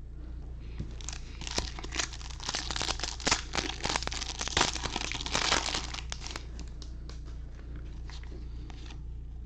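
Foil wrapper of a baseball card pack crinkling and tearing as it is opened, with sharp crackles for several seconds before it settles.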